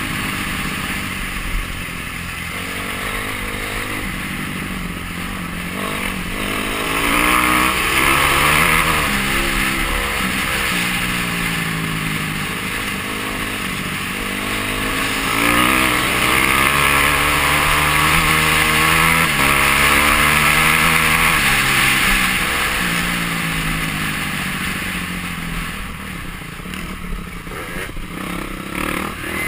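Dirt bike engine under way, its pitch repeatedly climbing and dropping as the rider accelerates, shifts and backs off. It is loudest in two spells of hard acceleration, about a quarter of the way in and again through the middle.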